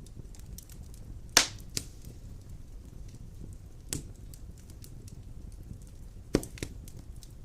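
Wood fire burning in a stone fireplace: a low steady rumble with faint crackling, and loud sharp pops from the burning logs, two close together about a second and a half in, one near four seconds and another pair near the end.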